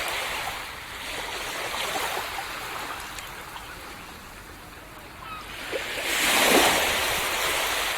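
Small waves breaking and washing up a beach, swelling and fading, with the biggest surge about six and a half seconds in.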